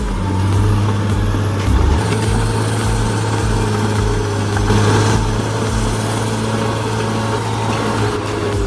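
Heavy machine's engine running steadily with a deep hum, likely a bulldozer, under background music with a pulsing bass.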